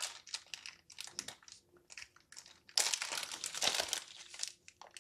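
Packaging of a CPU contact frame being handled and opened, crinkling in a run of short crackles that thicken into a louder, continuous crinkle a little before the three-second mark.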